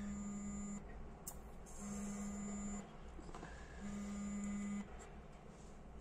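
A low buzzing tone sounds three times, each about a second long and about two seconds apart, with a faint click between the first two.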